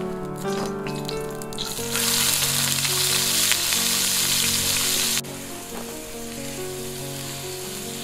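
Food dropped into a hot cast-iron skillet over a wood fire, sizzling loudly from about two seconds in; the sizzle drops sharply about five seconds in and carries on quietly. Background music plays throughout.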